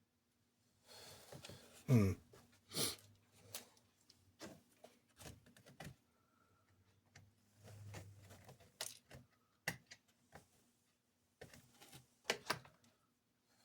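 Small plastic toy parts being handled and fitted together: irregular clicks, taps and knocks, with a brief falling-pitched sound about two seconds in, the loudest moment, and a faint steady hum underneath.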